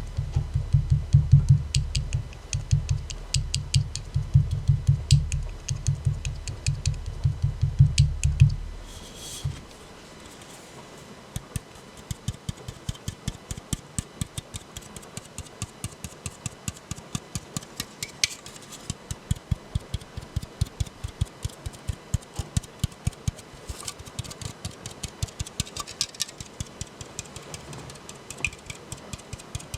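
Fingers tapping rapidly on an aluminium soda can, with deep hollow thuds for about the first nine seconds. After a brief hiss the taps turn to lighter, quicker clicks, several a second.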